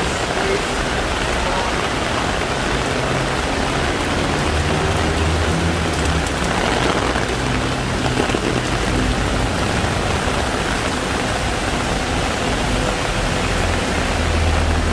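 Heavy rain pouring steadily, with the low hum of a vehicle engine joining in about four seconds in and again near the end.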